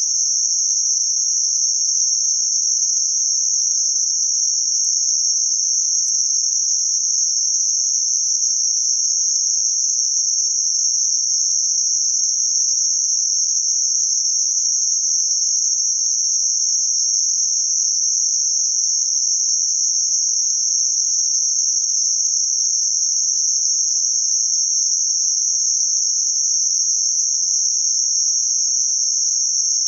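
Synthesized band-limited noise centred around 6 kHz: a steady, unchanging high hiss with nothing below or above the band.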